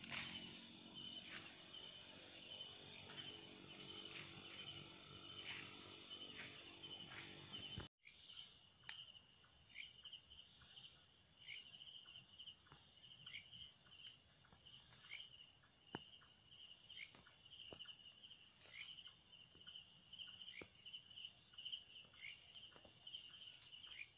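Crickets and other insects trilling steadily, with sharp clicks every second or two. The sound drops out briefly about 8 seconds in.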